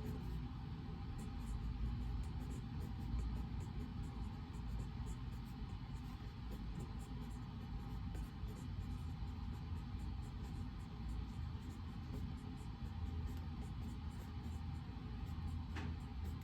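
Steady low rumble of reading-room background noise, the room's white noise, with faint scattered small ticks and one click near the end.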